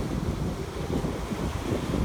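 Wind buffeting the microphone in gusts, over the steady hiss of sea surf.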